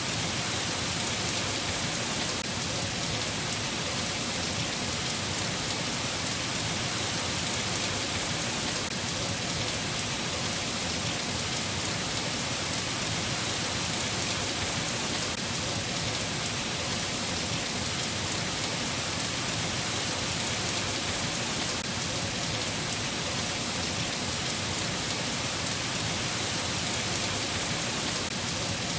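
Steady rain falling: an even, unbroken hiss with no rises or breaks.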